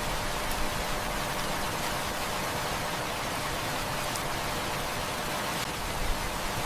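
Heavy rain falling in a steady, even rush, with a few faint clicks scattered through it.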